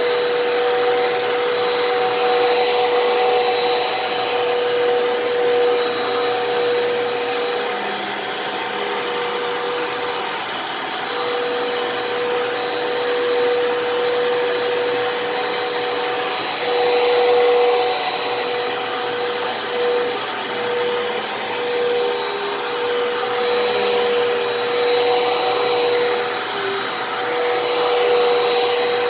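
Fantom Fury vacuum cleaner running steadily with a motor whine over a rush of air, its loudness swelling and falling every few seconds as it is pushed back and forth, and its pitch wavering briefly a few times.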